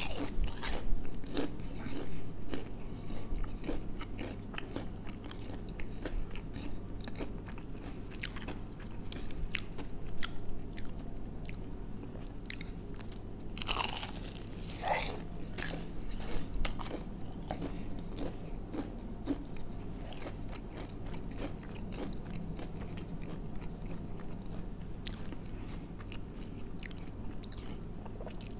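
Crunching bites into crispy breaded fried chicken, then steady chewing with the crackle of the fried coating.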